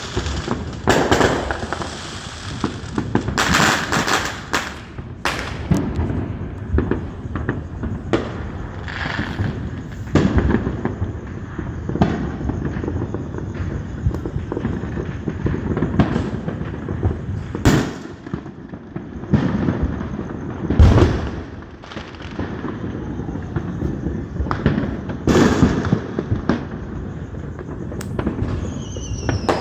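Fireworks going off: a steady run of sharp bangs and booms with crackling between them, and a short falling whistle near the end.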